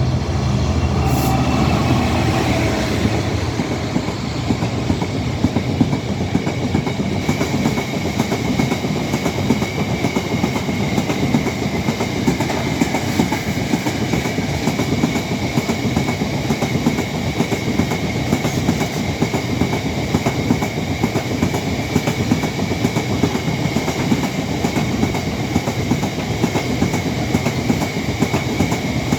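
A freight train passing: the Class 66 diesel locomotive's engine goes by in the first few seconds with a falling pitch, then a long rake of freight wagons rolls past with a steady clatter of wheels on rail and a steady high ringing tone.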